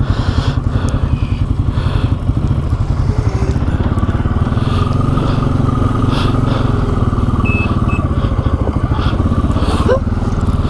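ATV engine running at low speed with a steady, even pulsing, with light knocks and clatter from the machine over rough ground.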